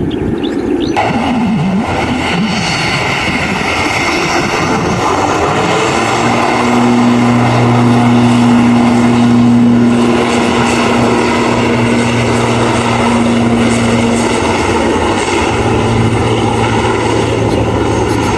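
Aircraft engines running, a loud steady noise, with a low steady hum joining about six seconds in and fading near the end.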